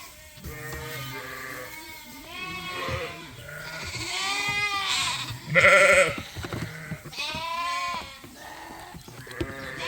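Sheep and lambs bleating in a pen, several wavering calls one after another, the loudest about six seconds in.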